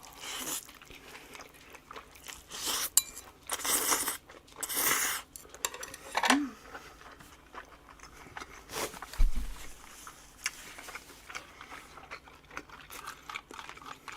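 Close-miked mukbang eating sounds: crisp crunching bites and chewing of boiled pork wrapped with kimjang kimchi, with a run of loud crunches in the first half and another about nine seconds in.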